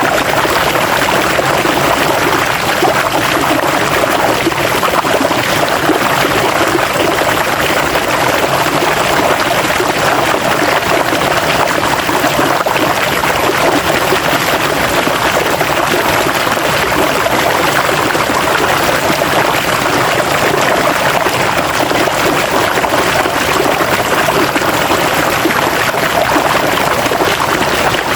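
River water flowing, a steady rushing without pauses or changes.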